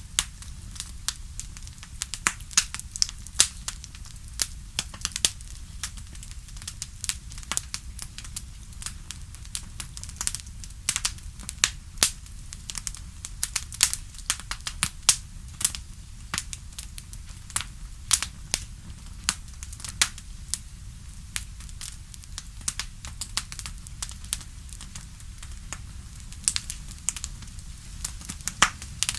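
Wood fire burning in a fireplace, crackling with many sharp irregular pops, several a second, over a steady low rumble of the flames.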